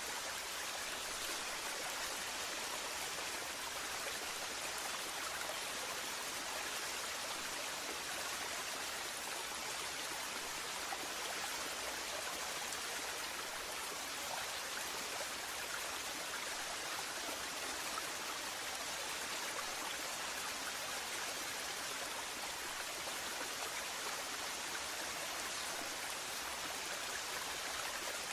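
Waterfall: steady rush of falling and flowing water, unchanging throughout.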